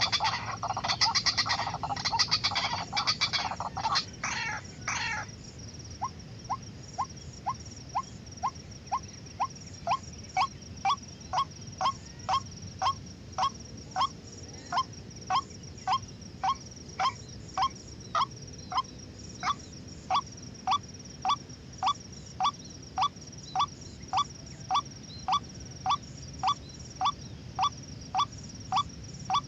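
White-breasted waterhen calling: harsh, overlapping calls for the first few seconds, then a long, even run of single short notes at about two a second.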